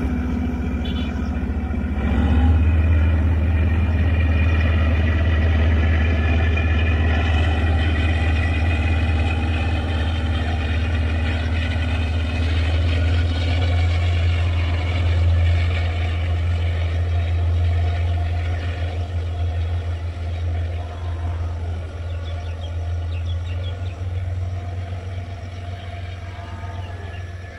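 Diesel-electric multiple unit (DEMU) train running along the track: a steady low diesel engine hum with rumble from the coaches, growing louder about two seconds in and fading gradually near the end as the train pulls away.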